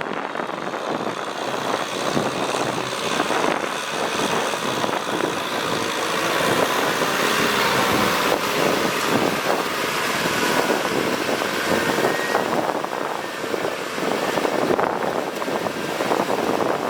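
Kubota tractor's diesel engine running steadily under load while plowing.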